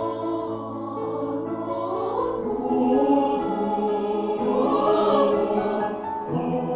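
Mixed choir singing held chords in several parts, the voices swelling and gliding upward about a third of the way in and again near the middle.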